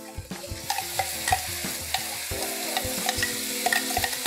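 A wet spice paste sizzling as it fries in hot ghee with browned onions, stirred with a spatula that scrapes and knocks against the pan at irregular intervals.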